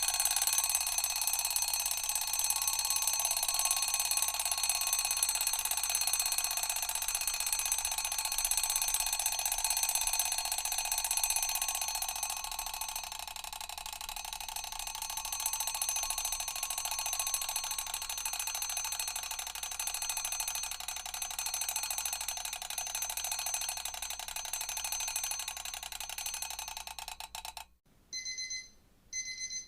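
Alarm bell ringing continuously with a fast metallic rattle, in the manner of a mechanical alarm clock's hammer striking its bells. It cuts off suddenly near the end, and short electronic alarm beeps begin.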